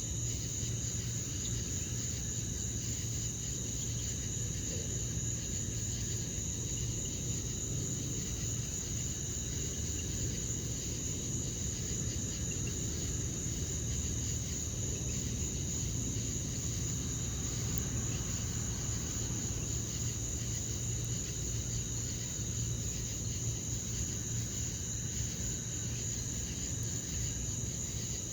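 A steady, unbroken high-pitched chorus of night insects trilling, with a low steady hum underneath.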